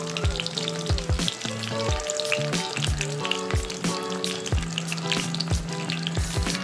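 Eggplant pieces sizzling in hot oil in a wok, with scattered crackles, under background music with a steady beat.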